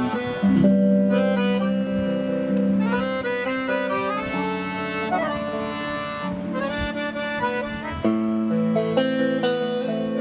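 Accordion and guitar duo playing live: the accordion carries a melody of held and moving notes over a guitar accompaniment.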